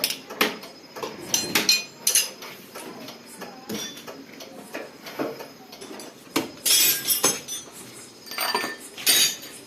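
Irregular metallic clinks and clanks of hand tools and steel parts being handled and knocked together during a tractor gearbox repair, with a louder cluster of clatter a little past halfway and again near the end.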